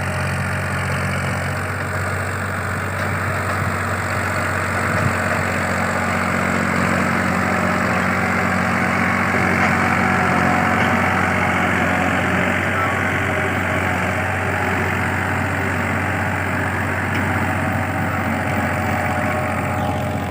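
Powertrac 434 tractor's diesel engine running steadily at a constant speed, a little louder about halfway through.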